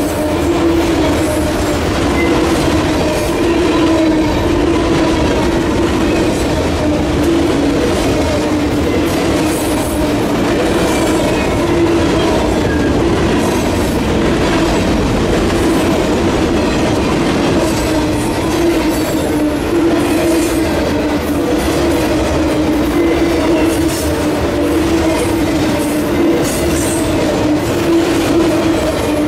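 Freight cars of a long train rolling past close by, mostly autoracks with a covered hopper, with a steady whooshing of air from each passing car over the noise of wheels on rail. A steady low hum and intermittent clicks run through it.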